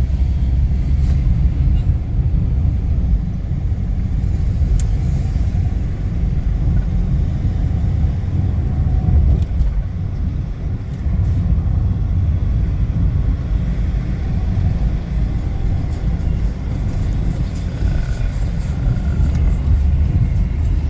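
Steady low rumble of a car travelling through city streets.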